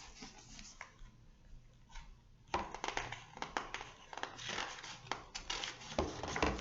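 Paper rustling and crinkling as a book's pages are handled and turned. It starts about two and a half seconds in as a dense run of soft crackles and clicks.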